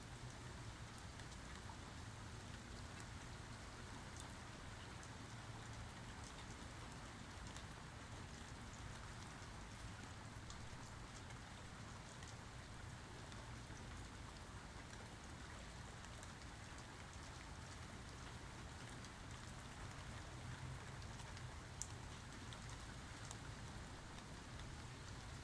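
Rain falling steadily, with scattered individual drop ticks and one sharper tick near the end.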